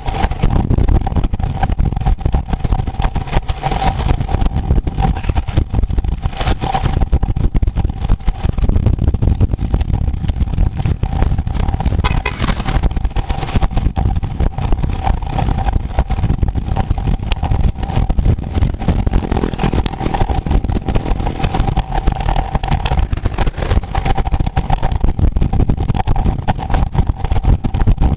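Steady, loud rumble of wind and road noise recorded while moving at speed, with a constant high whine.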